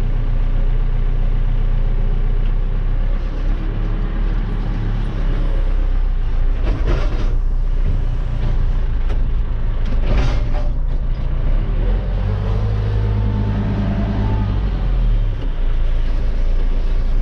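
Backhoe loader's diesel engine running steadily, with two short hissing surges about seven and ten seconds in and a steadier engine note a little after twelve seconds. No brake squeal is heard: new oil in the wet brakes has stopped it.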